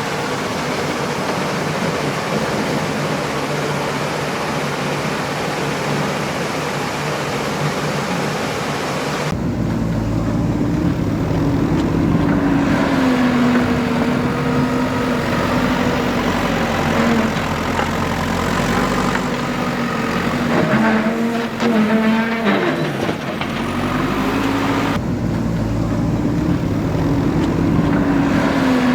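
A JCB 3DX backhoe loader's diesel engine working under load, its pitch rising and falling as the throttle and hydraulics are worked. It follows a steady rushing noise at the start, and the sound changes abruptly twice where the video cuts.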